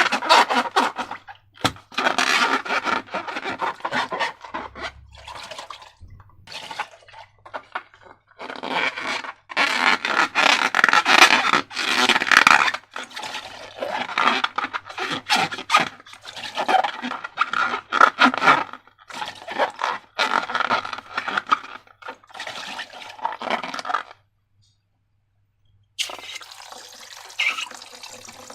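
Thick wet slime being squeezed, squished and scraped by hand, in irregular squelching bursts of a second or two with crackly, liquid textures. The sound drops to dead silence for about two seconds near the end.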